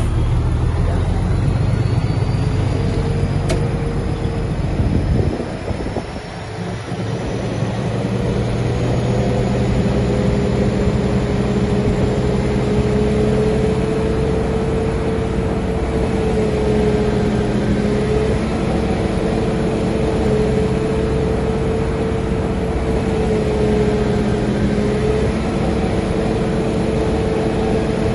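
Shantui bulldozer's diesel engine running hard, easing off briefly about six seconds in and then building back up, with a steady whine over the engine note.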